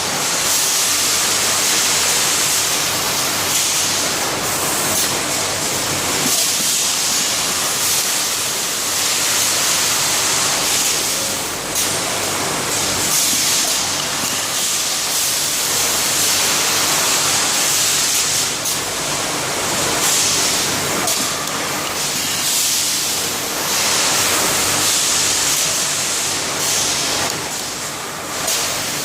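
Sock labelling machine running, giving a steady loud hiss with a faint hum beneath it.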